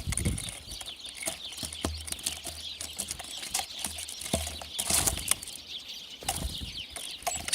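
Small birds chirping busily in many short, high calls, with scattered wing flutters and light taps.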